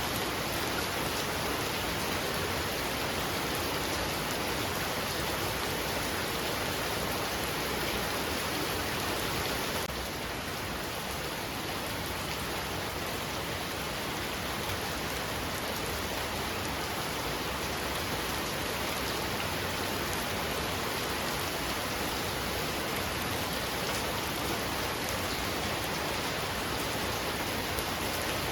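Heavy rain falling steadily as a dense, even hiss, a little quieter from about ten seconds in.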